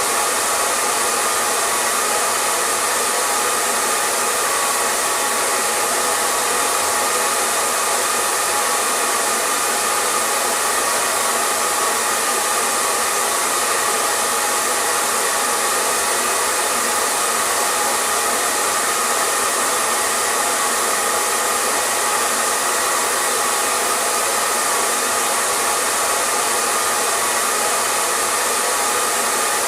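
Hair dryer running continuously: a steady, even rush of blown air with a faint fan whine, unchanging in pitch and level.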